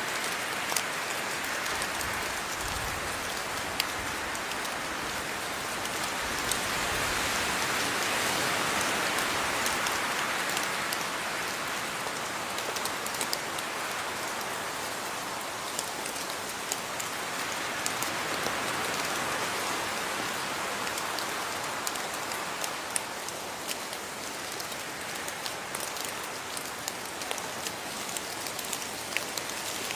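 Steady rain falling, a continuous hiss that swells and eases gently, with scattered sharper drips landing close by.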